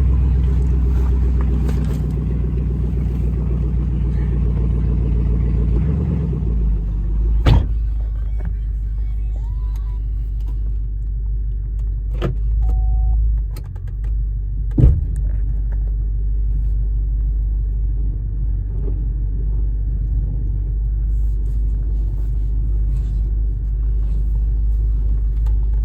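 2015 Chevrolet Camaro SS 6.2-litre V8 idling steadily just after a cold first start of the season, through a Borla ATAK exhaust with muffler delete. A few sharp clicks and a short beep sound over the idle.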